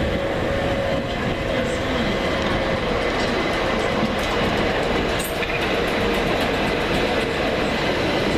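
London Overground Class 378 electric train running along the platform, a steady train noise with a faint motor whine in the first half and light clicks of wheels over the rails.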